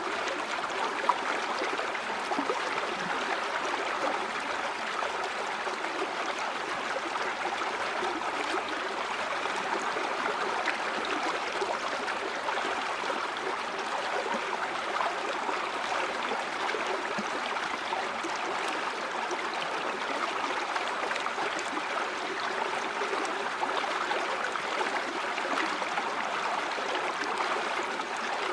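River water flowing steadily, a continuous rush with small bubbling splashes.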